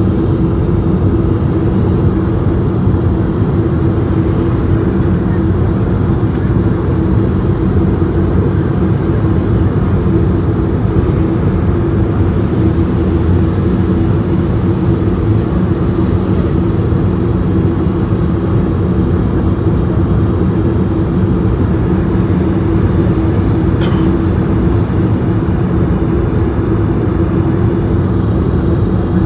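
Steady cabin noise inside an Airbus A220-100: engine and airflow noise from its Pratt & Whitney PW1500G turbofans, with a constant low drone tone. A small click about 24 seconds in.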